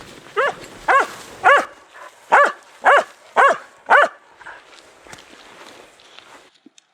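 Hunting dog barking: seven sharp barks in about four seconds, in two quick runs, then it falls quiet.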